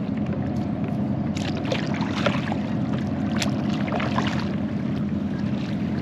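Kayak paddle strokes, the blade dipping and splashing in shallow water in a short run of strokes, over a steady low engine drone.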